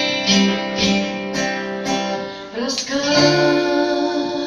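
Live band music: a guitar strummed about twice a second, and about three seconds in a woman sings a long held word ("рассказ").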